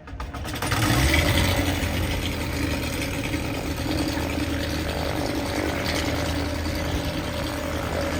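Seaplane's propeller engine running steadily with a low, even drone that comes in about a second in.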